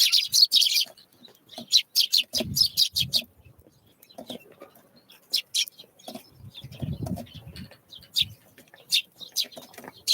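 Small songbirds at a winter feeder giving many quick, high chirps and call notes, a burst of them at the start and more scattered through, with a few low muffled thuds in between.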